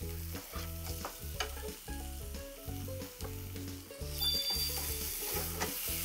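Chopped onion, garlic and lemon slices sizzling in hot oil and pork fat in a frying pan over medium heat, stirred with silicone tongs that click now and then against the pan. The sizzle grows louder about four seconds in, over low background music.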